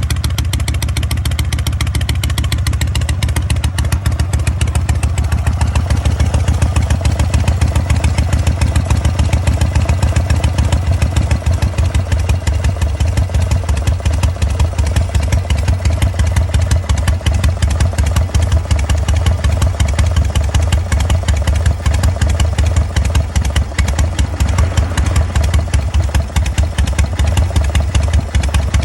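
Harley-Davidson Panhead air-cooled V-twin idling slowly with a steady, pulsing exhaust beat, its idle turned down low enough to give the loping 'three-beat' (sanbyoshi) rhythm.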